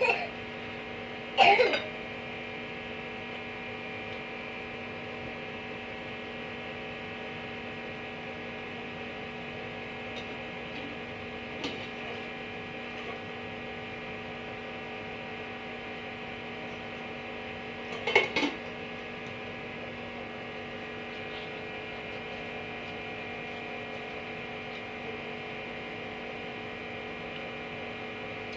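Steady electrical hum made of several level tones, interrupted twice by brief louder sounds: once about a second and a half in, and again about two-thirds of the way through.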